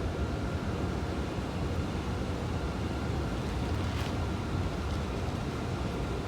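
Passenger train running through the station with a steady low rumble and a faint steady whine, with wind noise on the microphone and a brief click about four seconds in.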